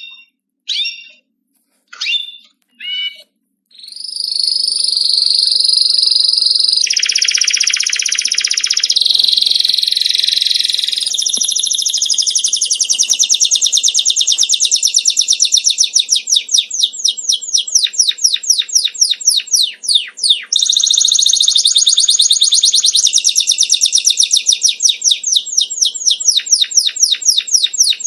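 Songbird singing: four short separate chirps, then a loud, continuous song of rapid, high-pitched trills made of quickly repeated notes.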